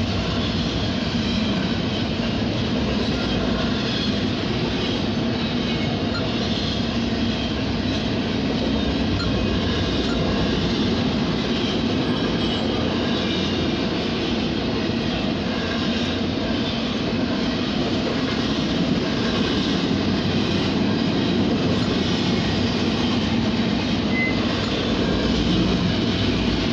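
Double-stack intermodal container cars of a CSX freight train rolling past, a steady rumble and clatter of wheels on rail that keeps up without a break, heard from inside a car.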